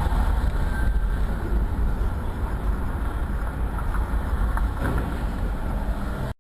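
A car driving, heard through a dash cam: steady low road and engine rumble, with a few faint clicks about five seconds in, cutting off suddenly just before the end.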